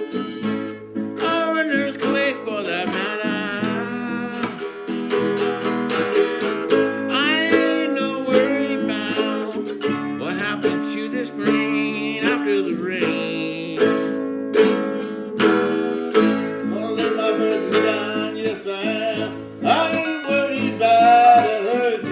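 A song played on strummed acoustic guitar, with a voice singing over the chords.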